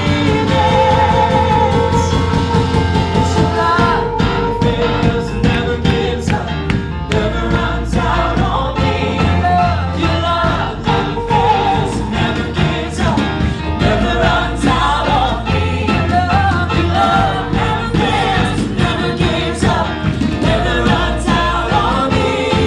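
Live praise and worship music: a band with bass and drums playing under group singing.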